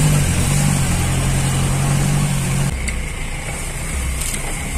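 Off-road Jeep's engine running steadily on a dirt track, its low note dropping to a lower pitch nearly three seconds in as the revs ease off.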